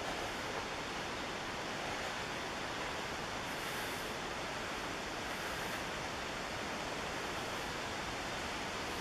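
Steady rushing of the McKenzie River's whitewater and falls, an even roar with no breaks.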